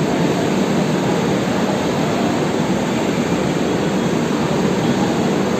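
Steady running noise of a moving train heard inside an Indian Railways AC 3-tier coach, an even, unbroken rush.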